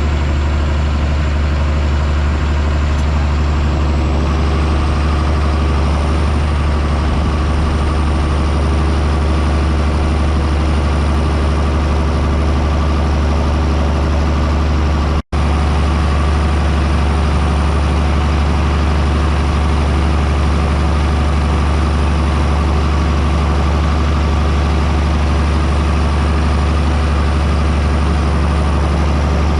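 John Deere 6630 Premium tractor's six-cylinder diesel engine running steadily under load while plowing, with a faint high whine above the engine note. The sound cuts out for an instant about halfway through.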